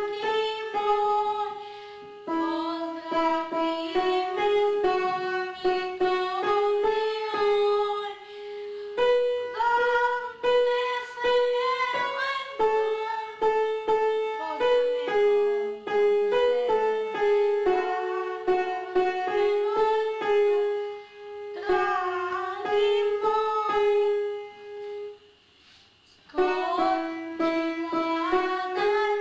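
Instrumental music: a melody of quick, separate notes played on an instrument, with a short break about 25 seconds in.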